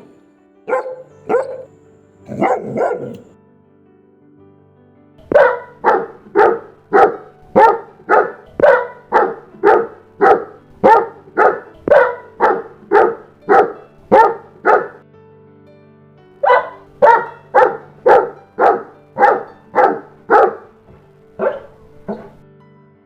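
St. Bernard barking: a few scattered barks first, then two long runs of regular barks at about two a second, separated by a short pause. Soft background music runs underneath.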